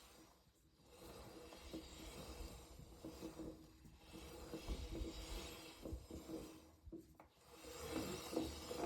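Rubbing, rasping mechanical noise from around the front sprocket of a 1998 Harley-Davidson Sportster XLH883, the abnormal noise being investigated. It swells and fades in a slow cycle, with a dip about every three seconds.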